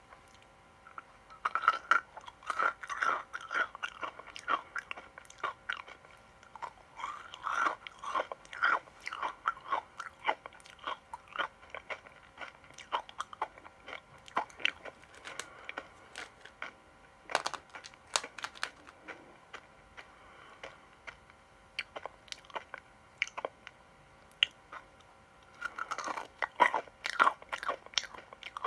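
Person crunching and chewing crisp sweets, in dense bursts of crackling bites with sparser crunches between them.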